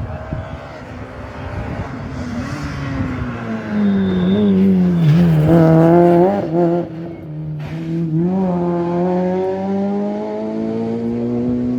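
Rally car engine at speed: its pitch falls as the car lifts and slows, it is loudest about five to six seconds in, and after a short sharp crack near eight seconds the pitch climbs steadily as it accelerates away.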